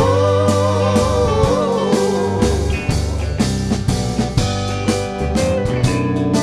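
A live rock band playing an instrumental stretch between sung lines: guitars, bass and drum kit keeping a steady beat. A held, wavering note fades out over the first two seconds.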